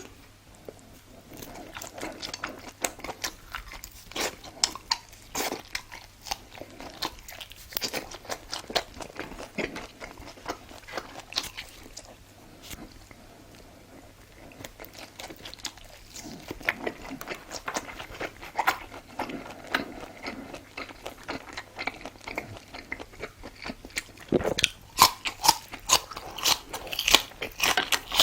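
Close-up eating sounds of a person biting and chewing crunchy food, an irregular run of crunches and wet chewing. There is a quieter lull near the middle, and louder crunching in the last few seconds.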